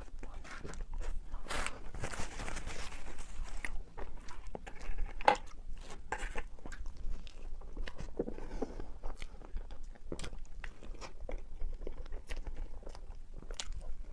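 Close-miked eating sounds: biting and chewing soft cake, with many small wet mouth clicks and smacks and a sharper click about five seconds in.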